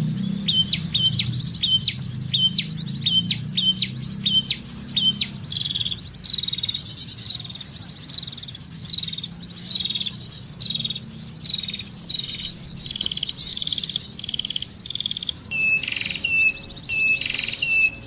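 Small bird calling with short, sharp chirp notes repeated at an even pace. At first there are about two rising chirps a second; from about five seconds in, the notes turn into drooping ones about a second and a half apart, and near the end they become lower and flatter.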